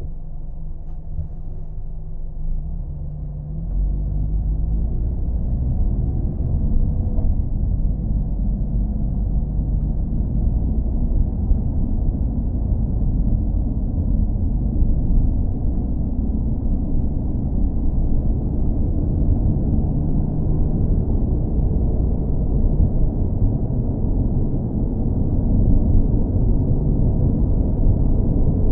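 Low, steady rumble of a driving car's engine and road noise. It grows louder about four seconds in with a briefly rising engine note, then holds steady.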